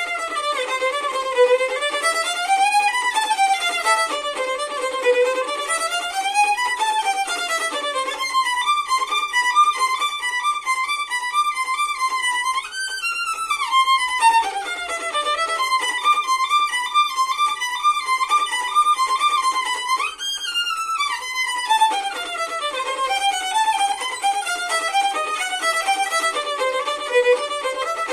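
Solo violin playing a fast, unbroken stream of short notes, running up and down in quick scale-like passages.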